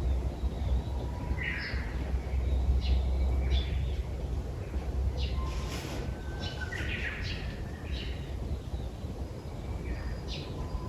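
Several wild birds chirping and calling in short, scattered phrases, over a low rumble that is heaviest in the first few seconds.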